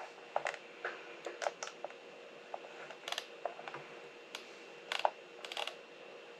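Scattered, irregular clicks of a computer mouse and keyboard, some in quick pairs, over a faint steady hum.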